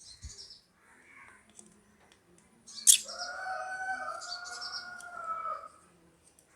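Birds chirping in the background in short repeated high phrases. About three seconds in there is one sharp click, followed by a steady held tone that lasts nearly three seconds.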